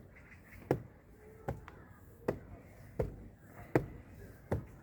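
Footsteps of a person walking at a steady pace, about one step every three-quarters of a second.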